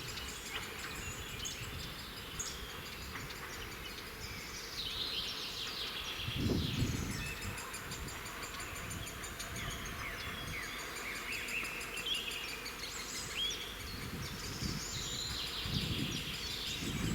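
Several songbirds singing and chirping, with a low rumble swelling briefly about six seconds in and again near the end.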